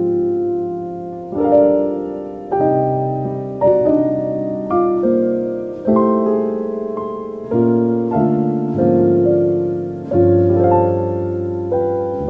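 Slow, gentle solo piano music: soft chords and melody notes struck about once a second, each left to ring and fade.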